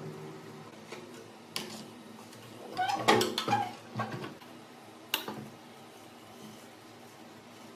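Metal parts being handled: a few sharp clinks, with a short clatter of metal on metal about three seconds in and another knock about two seconds later.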